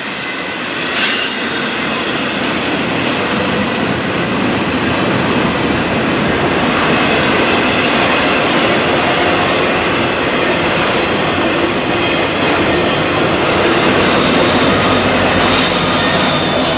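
Freight train rolling past close by, a steady rumble of wheels on rail. A brief high wheel squeal comes about a second in, and more squealing comes near the end.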